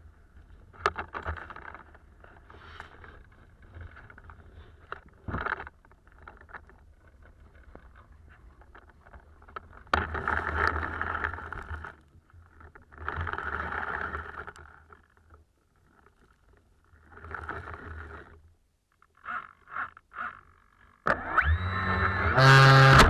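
Gusty wind buffeting the microphone in uneven bursts of rushing noise over a low rumble. Near the end a loud, steady, pitched tone with many overtones starts.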